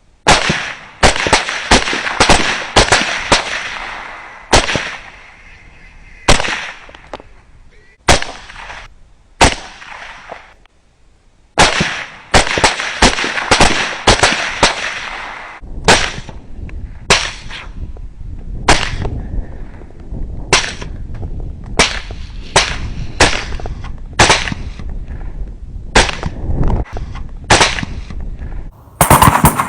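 Gunfire during a night hunt: rapid strings of shots, each with a ringing tail, broken by single shots every half second to a second, with a loud cluster near the end.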